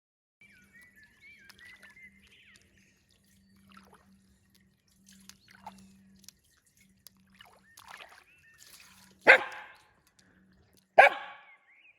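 A dog whining in high, wavering tones, then barking loudly twice near the end, about a second and a half apart.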